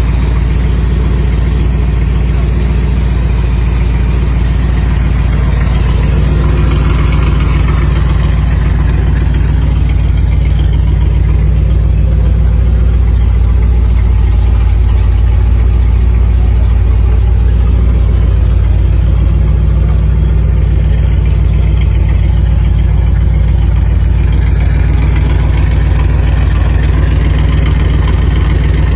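Honda Gold Wing GL1800 trike's flat-six engine idling steadily.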